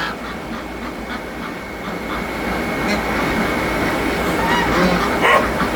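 Backyard geese honking and ducks calling together, a flock's mixed chatter, with a louder call about five seconds in.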